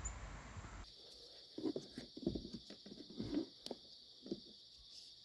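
Faint scattered clicks and light knocks of hands handling gear, over a steady high-pitched hiss that sets in abruptly about a second in.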